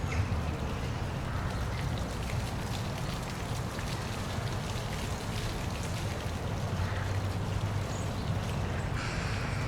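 Park waterfall: a steady rush and patter of falling water.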